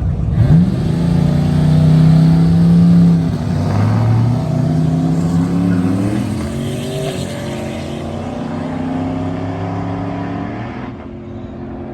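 A vehicle engine revving hard. The pitch climbs quickly about half a second in, holds high for a couple of seconds, then rises and falls with the throttle before easing off near the end.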